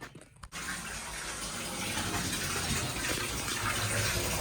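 Bath tap turned on, water gushing into a bathtub: it starts suddenly about half a second in and runs steadily, slowly growing louder as the tub fills.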